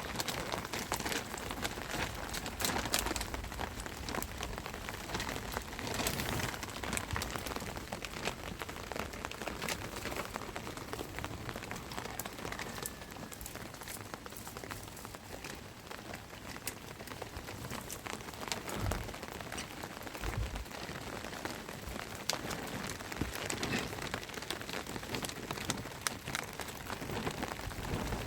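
Steady rain falling on a surface, with many small drop impacts.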